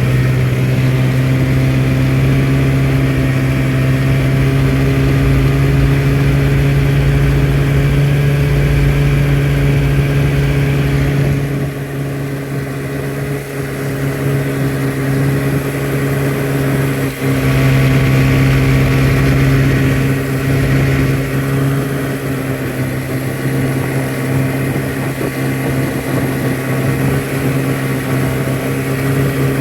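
Engine running steadily under load while towing a trail-grooming drag over snow. The engine eases off for several seconds about halfway through, then picks back up.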